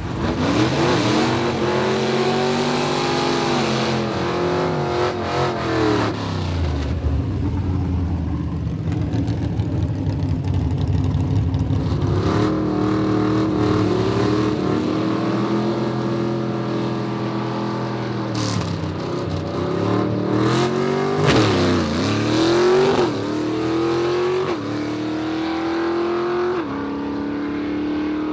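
Race car engine revving and accelerating, its pitch rising and falling, then dropping and climbing again twice near the end as it shifts up through the gears.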